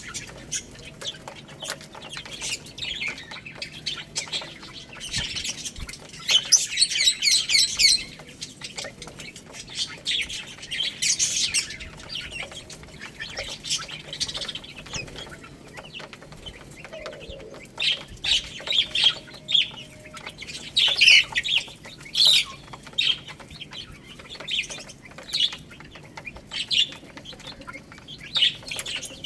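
Baby chicks peeping: many short, high-pitched chirps, some in quick runs, overlapping throughout.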